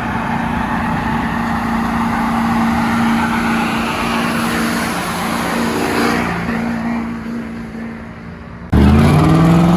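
Car engine held at high revs, its steady note mixed with a rushing noise, fading as the car moves away. Just before the end it cuts abruptly to another loud engine revving up, its pitch rising and then holding.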